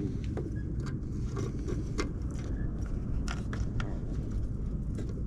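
Scattered light clicks and taps of hand tools being handled and fitted, over a steady low rumble.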